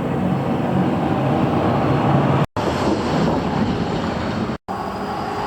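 Steady rush of road traffic, broken twice by brief drops to silence.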